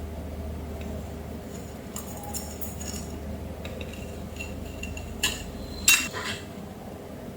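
Light clinks and clicks of small hard objects being handled, the two loudest about five and six seconds in, over a low steady hum that fades about six seconds in.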